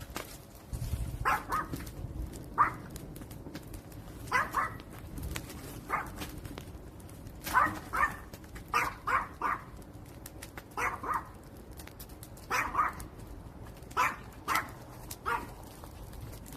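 A dog barking repeatedly in short bouts of two or three barks, over the light crackle and pops of a wood fire.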